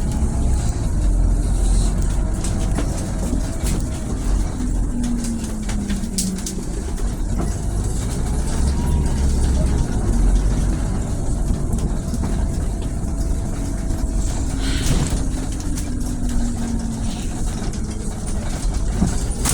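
Scania city bus with a Lahti Scala body driving: a steady low engine rumble, with a pitched whine that rises and then falls twice as the bus speeds up and slows down.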